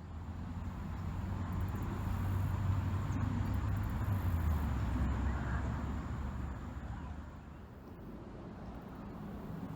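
Low rumble of road traffic, swelling and then slowly fading.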